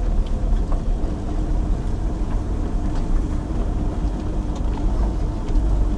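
Chevrolet Niva engine running steadily as the SUV drives along a rough grassy track, heard from inside the cabin as a low, even rumble with a few faint knocks from the body.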